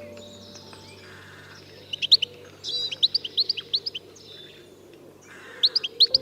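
A small bird chirping: quick runs of short, sharp chirps, bunched about two seconds in, around three seconds in, and again near the end.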